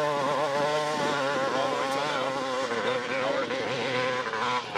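Dirt bike engine revving hard, its pitch wavering up and down as the throttle is worked.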